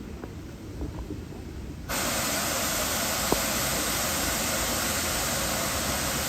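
A steam locomotive venting steam: a loud, steady hiss that starts suddenly about two seconds in, over a low rumble.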